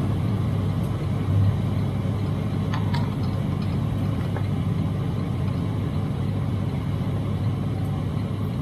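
Steady low drone of a semi truck's diesel engine with road noise, heard from inside the cab while driving.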